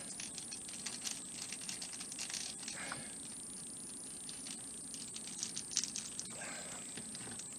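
Faint small clicks and light metallic clinking from tiny screws and model parts being handled, densest in the first three seconds with a few more clicks near the end.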